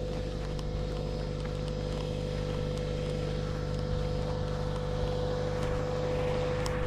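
A steady mechanical hum with a constant pitched tone, unchanging throughout.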